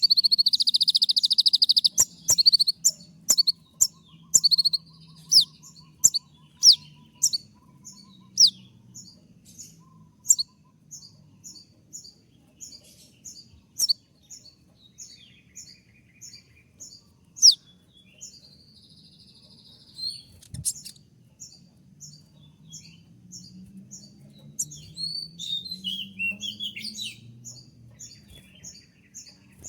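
Kolibri ninja (konin) sunbird calling with loud, sharp, high 'tembakan' notes, many falling quickly in pitch, with a buzzy trill at the start. Through the middle it settles into a steady series of short chirps about two or three a second, and it turns to more varied chattering notes near the end.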